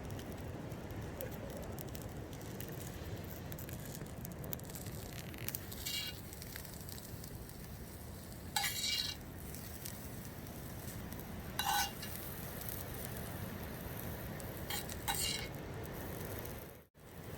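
Peppers and onions sizzling steadily over an open campfire, with a few sharp metal clinks of cooking gear, four in all, spread through the sizzle.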